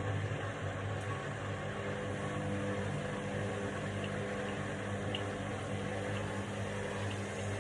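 Indesit washing machine on its spin cycle, the drum and motor running with a steady hum.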